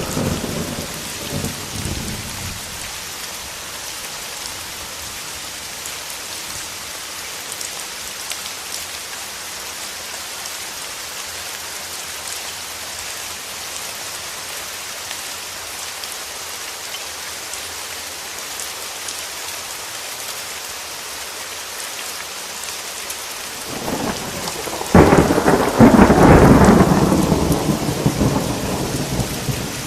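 Steady heavy rain with thunder: a rumble dies away over the first couple of seconds, then near the end a crack of thunder breaks into a loud rolling rumble that slowly fades.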